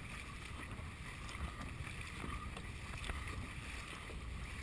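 Dragon boat under way, its paddles stroking the water, with wind rumbling on the microphone.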